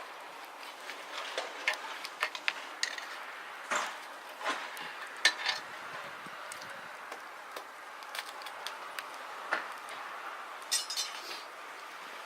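About a dozen sharp, irregular clicks and light clinks spread through, over a faint steady hiss, with a quick cluster of ringing clinks near the end.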